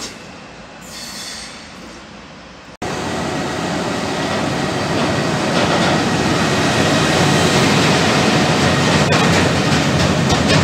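Freight train passing close by: a Vectron electric locomotive followed by a long string of open freight wagons, wheel and rail noise coming in suddenly about three seconds in and growing louder, with a few sharp clacks near the end. Before that, a fainter train in the station.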